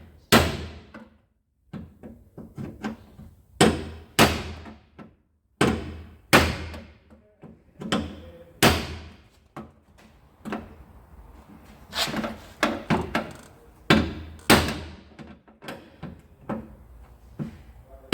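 Hammer blows on the crash-damaged rear body metal of an R31 Nissan Skyline, knocking the buckled panel back out: sharp strikes at an irregular pace of about one or two a second, each with a short ring after it.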